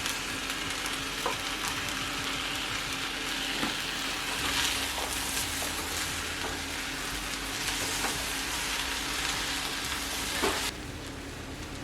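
Bulgur wheat, shrimp, chickpeas and vegetables sizzling in a frying pan as they are stirred, with a few light clicks of the utensil. The sizzle drops off suddenly near the end to a fainter hiss.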